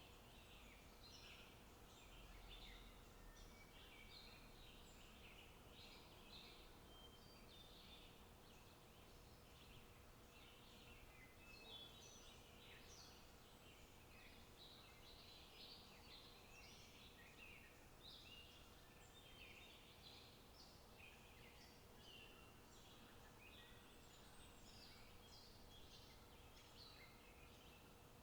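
Faint birdsong: several small birds chirping and twittering in quick, overlapping phrases without a break, over a soft outdoor background hiss.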